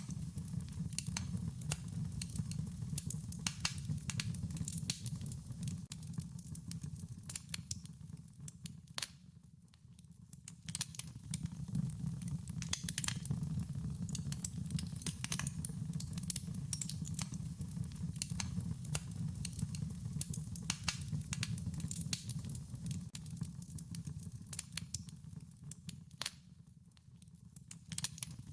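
Wood fire crackling, with irregular sharp pops and snaps over a low steady rumble. The sound dips down briefly twice, about ten seconds in and near the end.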